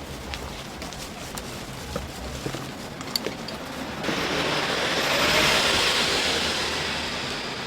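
A few light clicks, then, about four seconds in, deep-frying oil breaks into a loud sizzle that swells and slowly dies down: battered chicken going into the hot oil.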